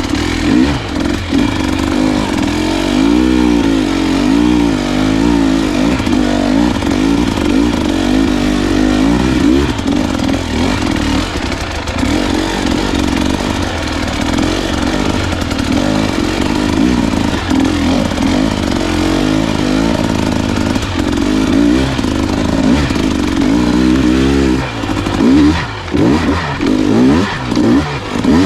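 Dirt bike engine revving up and down under the rider's throttle while riding a trail, the pitch rising and falling. Near the end the throttle comes on and off in short, choppy bursts.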